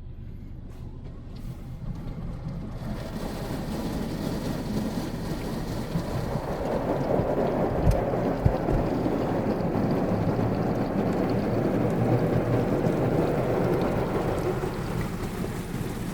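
Touchless car wash machine working over a car: a rushing, drumming noise that builds, is loudest in the middle and eases off near the end as the machine passes. There are two short thumps around the middle.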